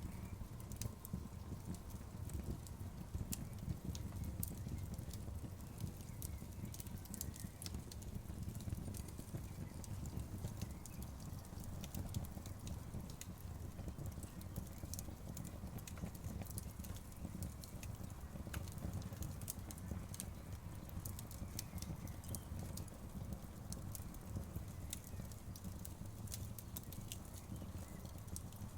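Outdoor bonfire crackling: frequent small sharp pops and snaps, irregularly spaced, over a steady low rumble of the burning fire.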